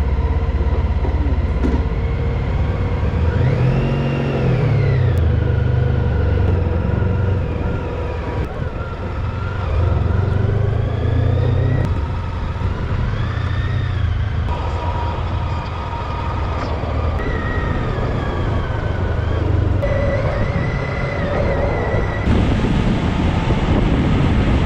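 Honda ST1300 V4 motorcycle being ridden on the road: engine and road noise, with the engine pitch rising and falling several times as it speeds up and slows. The sound changes abruptly a few times, as between short clips.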